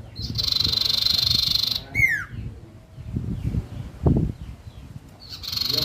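A sirtu songbird singing: a long, buzzy, high trilled note of about a second and a half, then a quick downward-sliding whistle, with the pair starting again near the end. Low thuds sound between the phrases, one loud about four seconds in.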